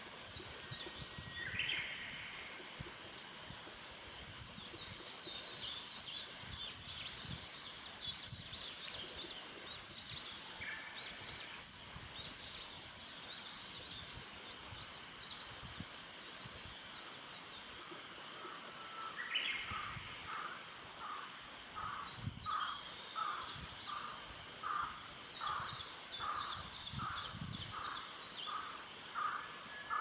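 Several wild birds singing and calling: high trills through most of it, a rising note about two seconds in, and over the last ten seconds a run of evenly repeated call notes, a little over one a second.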